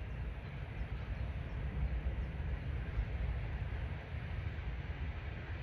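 Steady low rumble with a light hiss of outdoor noise, with no distinct event.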